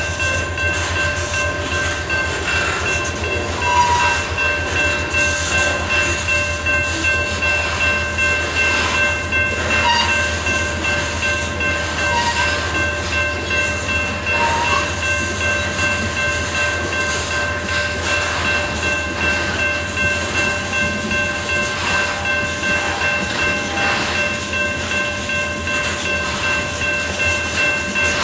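Loaded coal cars of a freight train rolling past at speed: a continuous rumble and fast rhythmic clatter of steel wheels on the rails, with several steady high-pitched ringing tones over it and a few brief squeals.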